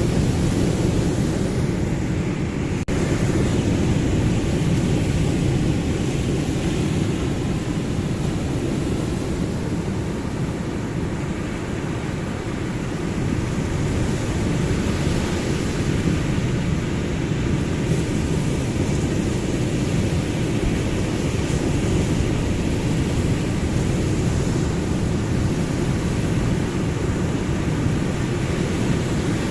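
Ocean surf as a steady, deep rumble of waves, with no distinct single breakers. There is a momentary dropout about three seconds in.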